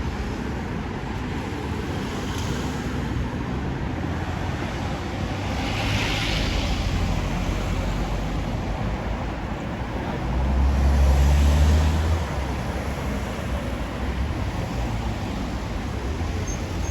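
Road traffic noise heard from a moving motorbike in city traffic: a steady wash of tyre and engine noise, with a passing hiss about six seconds in and a deep rumble that swells about ten seconds in and fades by twelve.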